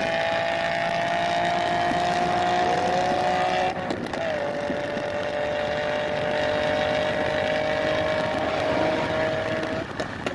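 2009 Infiniti G37S's 3.7 L V6 with resonated test pipes and a 370Z Nismo exhaust, held at steady high revs. The revs dip briefly about four seconds in, return slightly lower and hold, then fall away near the end.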